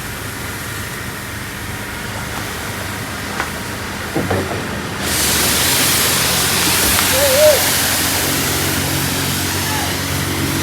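Water spraying at a car wash: a low steady hum with a few clicks, then about five seconds in a loud hiss of spray starts abruptly and keeps going.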